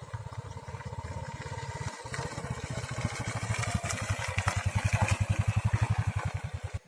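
Motorcycle engine running with a fast, even exhaust pulse. It grows louder over the middle of the stretch, then cuts off suddenly near the end.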